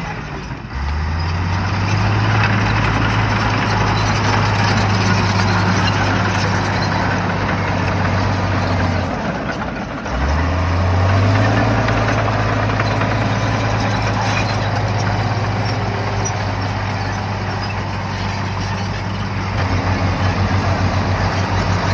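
Shantui bulldozer's diesel engine running hard under load. It revs up about a second in, sags about nine seconds in, then climbs back up. Near the end it takes on a quick pulsing beat.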